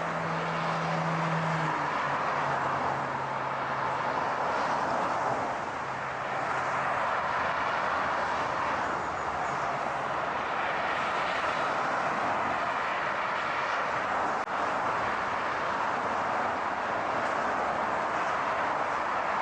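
A car driving, with steady road and tyre noise. A low engine hum drops in pitch about two seconds in and fades out over the next few seconds.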